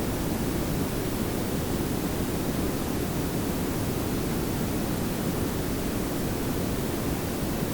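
Layered pink and brown noise: a steady, even hiss with a deep low rumble beneath it, unchanging throughout.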